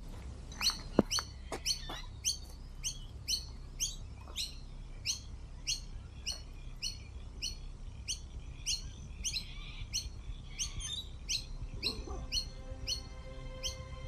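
A bird calling over and over, a short high chirp about twice a second at an even pace. A few sharp clicks sound in the first two seconds, and music with held tones comes in near the end.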